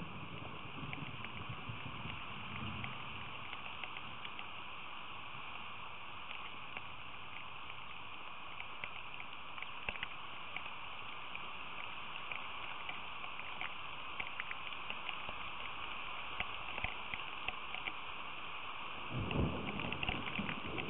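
Steady rain falling, with many small drop impacts ticking close to the microphone, and a brief low rumble near the end.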